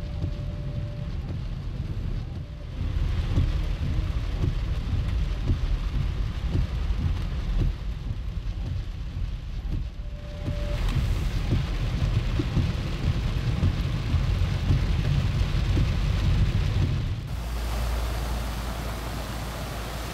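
Heavy rain drumming on a car, heard from inside the cabin as a dense, low crackling rumble. Near the end it gives way to a steadier rush of rain and flowing floodwater.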